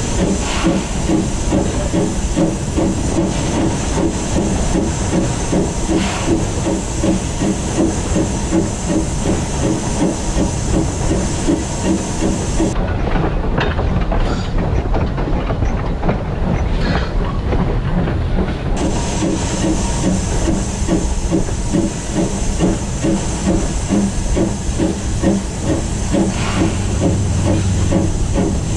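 Steam locomotive heard close up while running: a loud, steady hiss of steam over a fast, even rhythmic beat. The high hiss drops away for several seconds near the middle, then returns.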